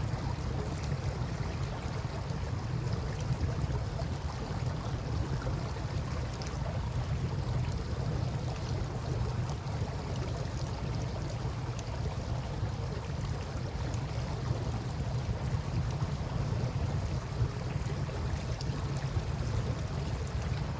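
Campfire burning with scattered small crackles and pops over a steady wash of river water, with a low rumble underneath.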